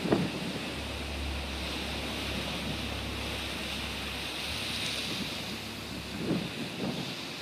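Rough open-ocean sea rushing and breaking past a motor yacht, under strong wind. The wind buffets the microphone in short gusts at the start and twice near the end.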